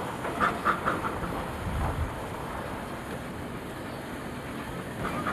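Minneapolis steam traction engine running on parade, its exhaust chuffing, with three sharp beats in quick succession about half a second in, then a steadier rumble.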